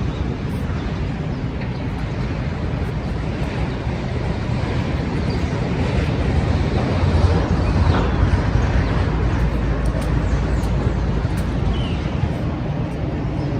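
Busy city street ambience: a steady low rumble of traffic with a vehicle growing louder and passing near the middle, over a murmur of distant voices.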